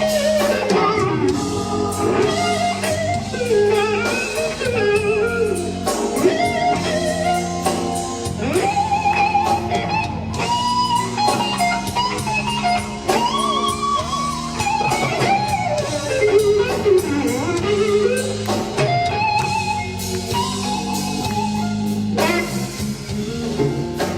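Live blues-rock electric slide guitar solo over a band: long gliding, wavering notes that bend up and down, with steady held bass and keyboard chords underneath.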